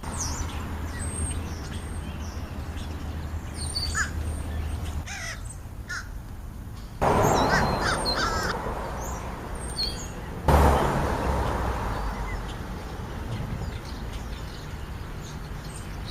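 American crows cawing, with short chirps from smaller birds. Two sudden rushes of noise, about seven and ten and a half seconds in, are the loudest sounds; each fades over a few seconds.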